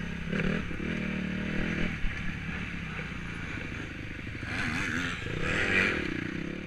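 Motocross bike engine running at low revs, its pitch wavering, with a short rise and fall in revs about two-thirds of the way through.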